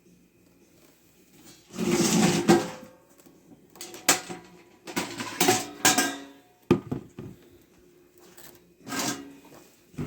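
Plastic parts on the underside of a robot vacuum being handled and tugged at, with clattering and scraping in irregular bursts and a few sharp clicks. The parts are clogged with wrapped dog hair and hard to remove.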